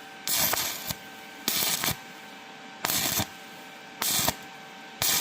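Five rasping hand strokes scraping across a freshly stick-welded thin steel profile, a little over a second apart, as when wire-brushing the slag off a weld.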